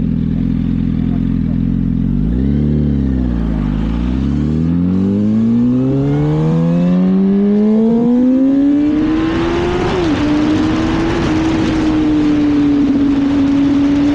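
Yamaha R1 sport bike engine idling, then a quick throttle blip about two seconds in. The bike pulls away with the engine pitch rising steadily for about six seconds, changes gear near ten seconds in, and holds a steady cruise as rushing wind noise grows.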